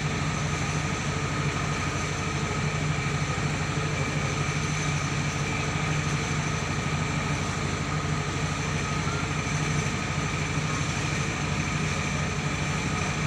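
Mobile rice milling machine running steadily: a constant engine hum with a steady high whine over it and no change in speed.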